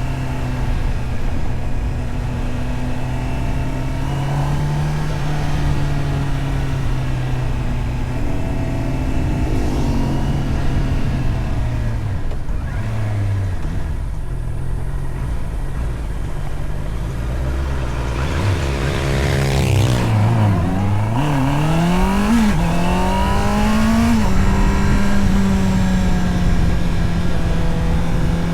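Honda CBR650R's inline-four engine under way: a steady cruise, then engine speed falls away around the middle. About two-thirds through it revs up in steps, with short drops between them as gears change, and it settles into a steady, higher-pitched cruise.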